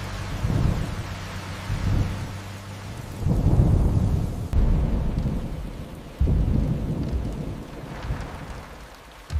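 Steady rain with repeated low rolls of thunder, the loudest about three to five seconds in.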